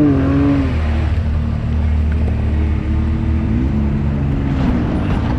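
Side-by-side UTV engine running, its revs rising and falling several times.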